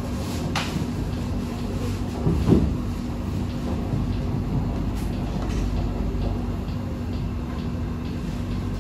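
SMRT C151A train running at steady speed, heard from inside the car: a continuous rumble of wheels on rail with a steady low hum. There are a few light clicks and one louder thud about two and a half seconds in.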